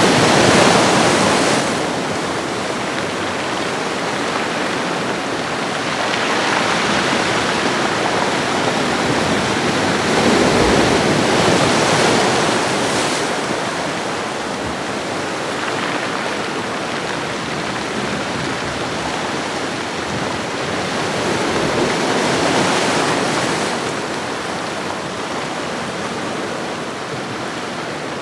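Ocean waves washing onto a shoreline: a steady hiss of surf that swells and fades every few seconds, with louder waves breaking right at the start, around 10 to 13 seconds in and again around 22 seconds in.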